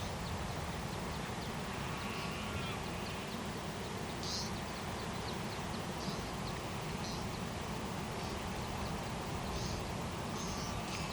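Outdoor countryside ambience: a steady low rushing background with short, high bird chirps about half a dozen times.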